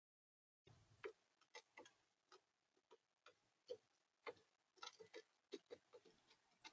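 Irregular sharp clicks and taps, about two or three a second, of an animal feeding at a plastic bird feeder, picking and cracking seed against the tray. The sound starts abruptly less than a second in.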